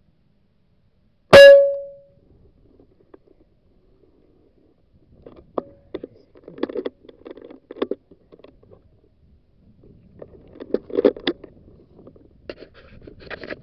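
A single air rifle shot about a second and a half in: one sharp crack with a short ringing tone after it. Scattered rustling and handling knocks follow later on.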